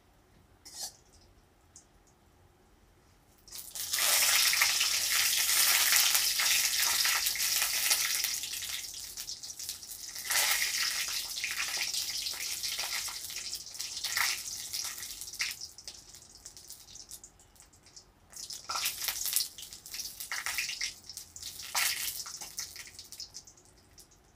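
Crushed lentil bori sizzling as they fry in hot oil in a kadai, stirred with a spatula. The sizzling starts suddenly a few seconds in and runs loud for about five seconds, then comes and goes in shorter bursts.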